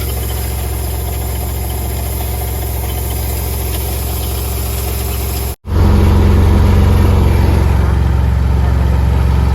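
Combine harvester engine running steadily with a low, even hum. About five and a half seconds in, the sound cuts out for an instant and comes back louder, with a stronger low drone.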